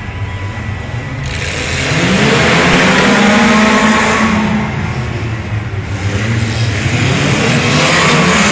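Car engines revving hard as the racers launch: the pitch climbs steeply about two seconds in, holds high, drops back around the middle, then climbs again near the end.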